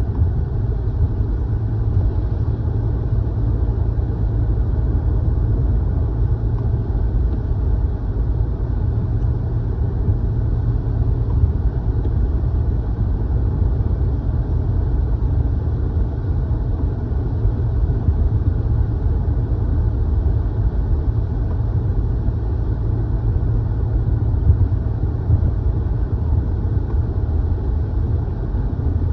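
Steady low rumble of a car's engine and tyres heard from inside the cabin while driving, with no change in pace.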